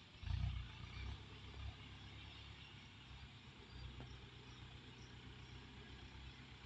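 Tractor engine running low and steady, faint, with a brief louder swell of low rumble about half a second in.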